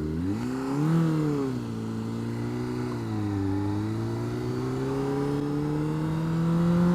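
2009 Honda CBR600RR's inline-four engine pulling away from a stop: the revs rise and drop twice in the first few seconds, then climb slowly and steadily.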